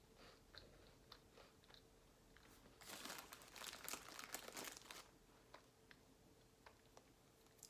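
Faint chewing with small clicks, then about two seconds of crisp crunching a little under three seconds in: crackers being bitten and chewed close to the microphone.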